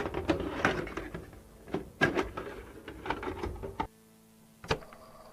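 Irregular mechanical clicking and clattering for about four seconds, then a quieter stretch with a faint steady hum and one last sharp knock.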